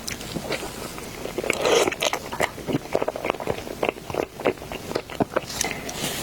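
Close-miked mouth sounds of a person biting and chewing a cake: many short clicks as the mouth works, with a louder bite a little under two seconds in.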